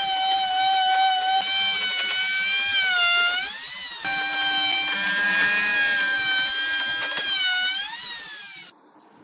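High-speed electric power tool whining steadily, its pitch dipping and recovering twice as it is loaded in the wood. The sound cuts off suddenly near the end.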